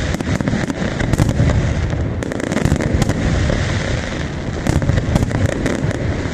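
Dense fireworks barrage: many overlapping bangs and sharp crackles over a continuous low rumble of explosions, with no pause.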